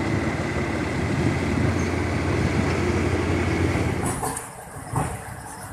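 Passenger train running, a steady low rumble. About four seconds in it cuts to a quieter rattle with one sharp knock.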